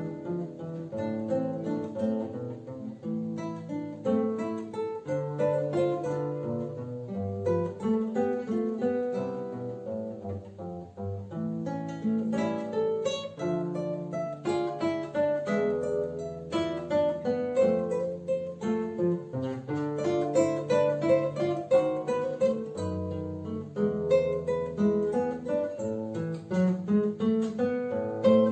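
Two acoustic classical guitars playing a duet: a plucked melody over held bass notes, the notes following one another in a steady flow.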